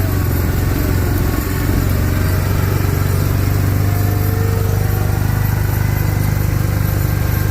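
An engine running steadily with an even, fast pulse and a low hum.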